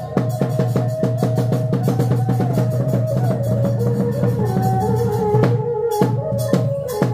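Khmer chhay-yam folk music: drums beaten in quick, even strokes under a melody of held notes that steps between pitches, the drumming breaking off briefly near the end.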